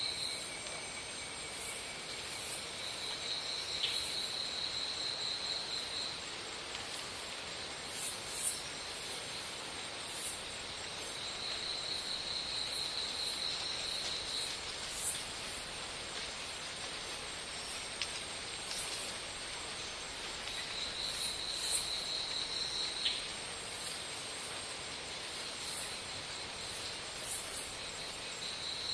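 Insects shrilling: a high steady buzz that comes in bouts of about three seconds, four times, over a constant thin high-pitched trill and many short high chirps.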